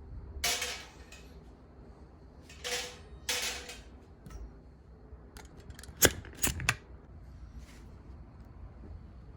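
Gear being handled by hand: three short rustling or scraping noises, then a loud sharp click about six seconds in with two more clicks close after it.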